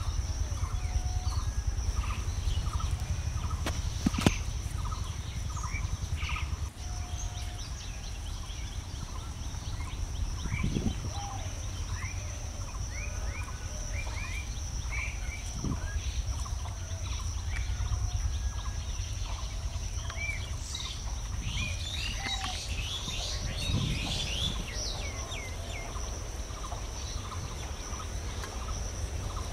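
Birds chirping and calling, many short calls scattered throughout and busiest past the middle, over a steady low rumble and a constant high-pitched whine. A single sharp click about four seconds in.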